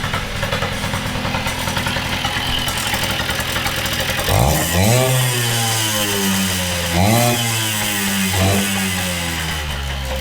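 Kawasaki KD80's 80cc two-stroke engine idling, then revved about four seconds in and again about seven seconds in, with a smaller blip near the end; each time the revs slide slowly back down to idle. This is the engine running again after sitting parked for 30 years.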